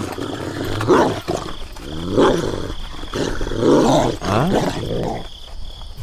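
Dubbed-in sound effect of a large dog growling and barking: several deep, rough calls in a row.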